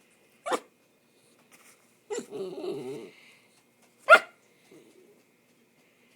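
Small dachshund sneezing: two short sharp bursts, about half a second in and just after four seconds, the second one the loudest. Between them the dog makes a wavering vocal sound of about a second. The owner puts the sneezing down to allergy season.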